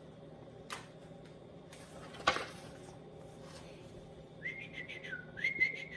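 Two sharp taps, then from about four and a half seconds in a warbling, stuttering whistle that drops in pitch and climbs back: chirping that imitates newly hatched chicks.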